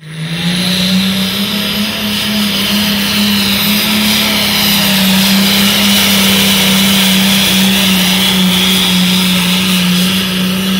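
Engine of a competition pulling tractor running loud and steady at a constant pitch.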